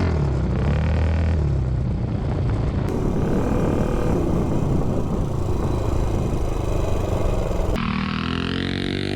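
Tillotson 263cc single-cylinder four-stroke engine on a mini bike, running through a super pipe exhaust at varying speed, with a steep rev-up near the end.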